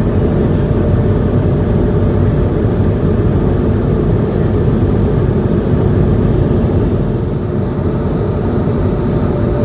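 Steady noise of an Airbus A220-100's engines and airflow heard inside the passenger cabin, a constant deep rush with a faint steady hum over it.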